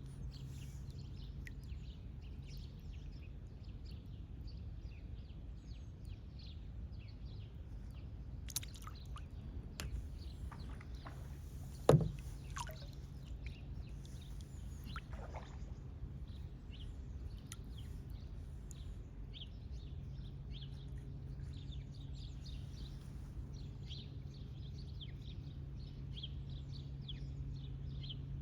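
Birds chirping over a steady low hum and water-and-boat noise from a kayak on a wetland canal, with one sharp knock about twelve seconds in and a few falling calls just after it.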